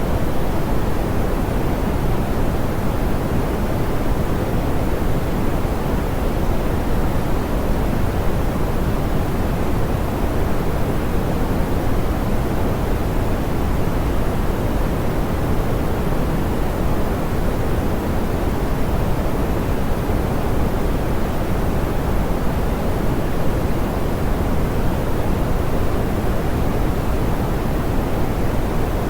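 Steady, smoothed pink noise: an even hiss weighted toward the low end, with no events or changes.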